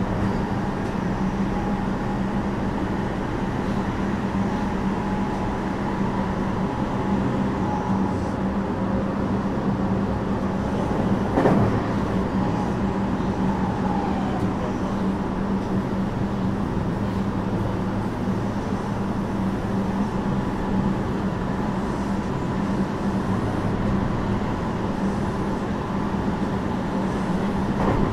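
JR West 321 series electric train, a Toshiba IGBT inverter car, running steadily between stations, heard from inside the passenger car: a constant rumble of wheels on rail with a steady low drone. A single sharp knock comes about eleven seconds in.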